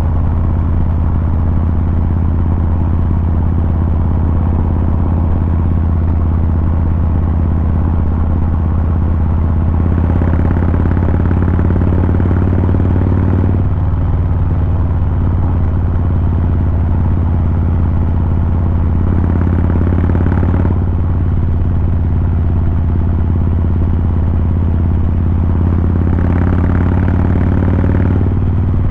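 2023 Harley-Davidson Fat Boy 114's Milwaukee-Eight V-twin running through its exhaust while riding, a steady low engine note. Three times the throttle opens briefly and the note rises a little, each time cut off suddenly.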